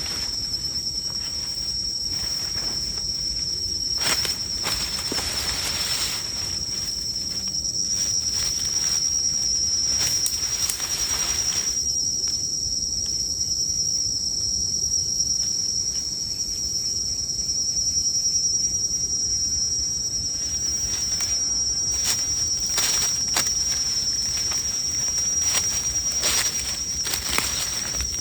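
Insects calling in one steady, unbroken high-pitched trill, with scattered rustling and clicking sounds coming and going over it.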